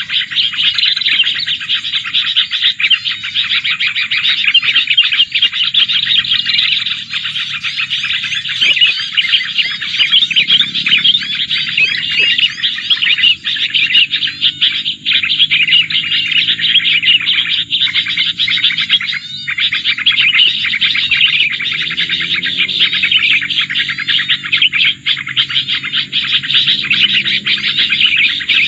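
Small songbirds chirping and twittering rapidly and without pause.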